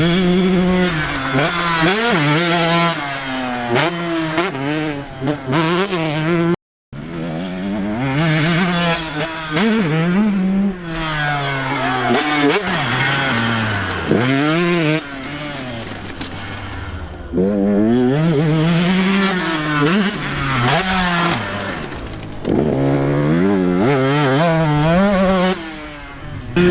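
Motocross bike engine revving hard and falling off again and again as the rider accelerates, shifts and backs off. The sound drops out completely for a moment about six and a half seconds in.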